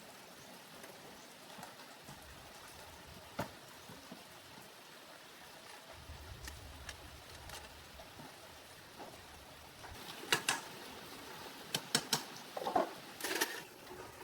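Faint background hiss with a single sharp click about three seconds in, then a cluster of sharp clicks and knocks near the end.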